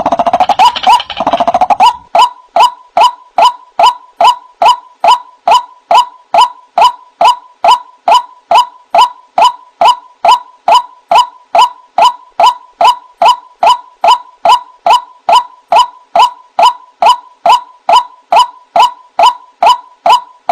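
White-breasted waterhen (ruak-ruak) calling in a lure recording: a steady rapid run of short 'kruak' notes, a little over two a second, with a denser jumble of overlapping calls in the first two seconds.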